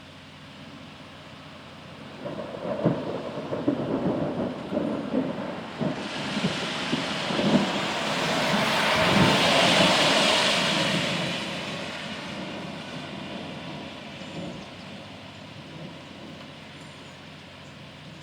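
A thunder roll: crackling rumbles begin about two seconds in, build to a loud peak near the middle, then slowly die away, over a steady background hiss.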